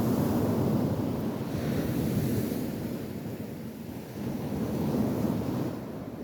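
Sea surf breaking on a beach with wind buffeting the microphone, the noise swelling and easing every couple of seconds.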